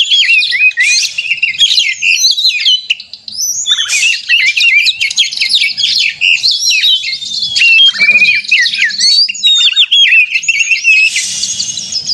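Oriental magpie-robin (kacer) singing loudly and continuously: a dense stream of rapid, varied whistles, sweeps and chatter, with a short lull about three seconds in. This is the bird's excited, combative 'narung' song, the kind used as a lure to provoke other magpie-robins into singing.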